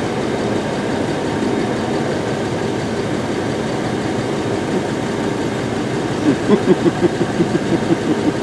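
An engine running steadily, with a run of quick, even pulses, about five a second, starting near the end.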